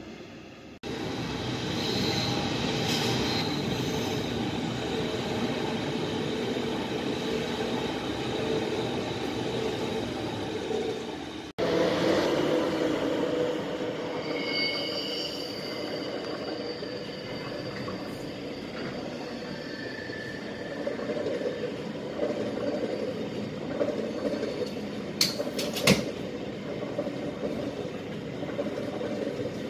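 Passenger trains rumbling along the tracks, in two passes cut together, the cut about eleven seconds in. The second is a Deutsche Bahn ICE high-speed train; its wheels squeal in a few brief high tones, and there are a couple of sharp clicks near the end.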